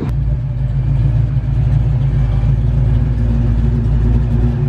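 Mustang engine running loudly at one steady speed, a deep even drone that neither rises nor falls.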